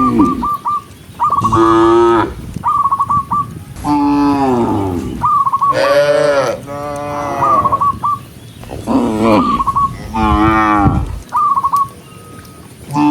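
Several cows mooing one after another, about six long, drawn-out calls, some overlapping. A short, high, pulsing trill sounds again and again between the moos.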